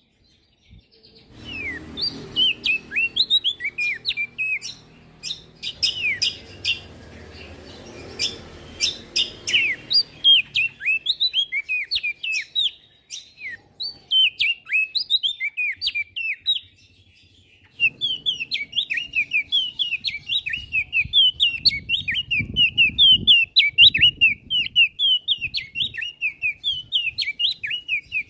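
A prenjak daun songbird singing a fast, continuous chatter of short, high chirps, broken by a couple of brief pauses. A low background rumble runs under parts of the song.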